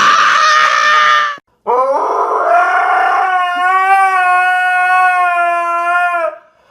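A dog howling: one short howl, then a long steady howl of about four seconds.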